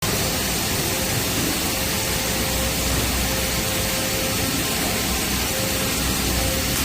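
Doosan HM 1250 horizontal machining center running with a steady hum and hiss, and a faint whine that comes and goes; no distinct tool-change clunks.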